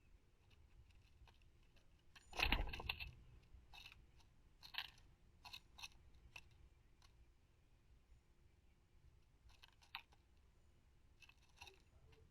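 Faint scattered clicks and taps of birds pecking at seed on a bird feeder, with one louder thump about two and a half seconds in.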